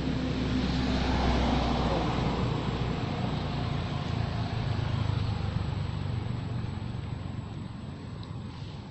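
A motor vehicle passing by: a noisy rumble that swells to its loudest about a second in, then slowly fades away.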